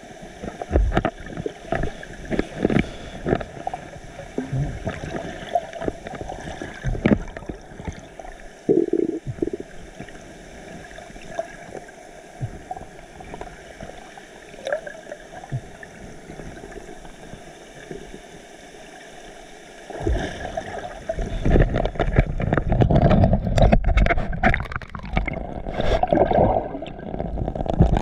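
Ocean water sloshing and splashing around a swimmer's camera, with irregular knocks and gurgles. About twenty seconds in it grows louder and busier, with a low rumble and dense splashing and gurgling.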